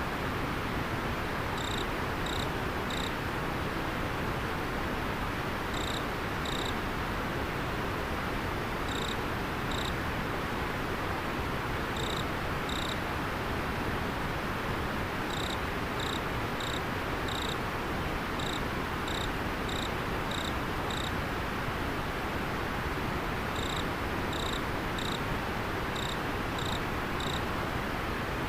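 River water flowing steadily, with an insect, a cricket by its call, giving short high chirps singly and in quick groups of two to four every second or two.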